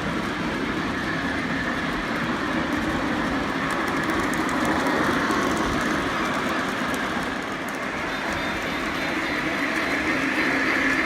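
Model train running along the layout's track: a steady running noise of wheels and motor, with faint clicks.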